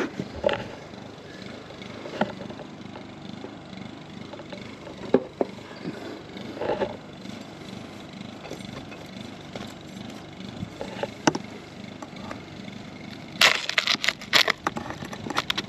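A metal hive tool scraping and prying wax comb loose from a wild honeybee nest: scattered scrapes and knocks over a steady hiss, with a burst of sharp clicks and cracks near the end.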